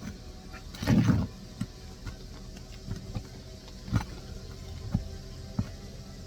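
Hand tools working asphalt shingles on a roof: a short scrape about a second in, then a handful of light knocks and taps, over a steady low hum.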